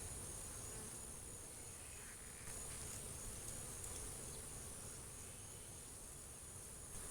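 Honeybees buzzing as a steady, faint hum around an open hive during a frame inspection, with a thin, steady high-pitched tone above it.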